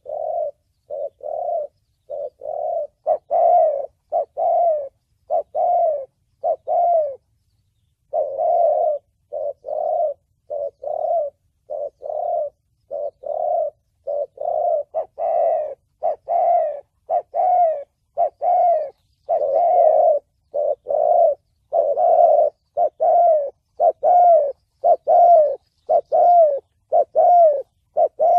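Spotted dove cooing in the deep 'thổ bầu' call style: short coos repeated one after another, about one to two a second, with a short pause about seven seconds in.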